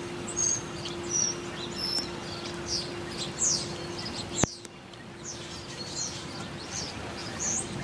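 Small birds chirping: short, high-pitched chirps repeating every half second to a second over a steady outdoor background. A faint steady hum stops with a sharp click about four and a half seconds in.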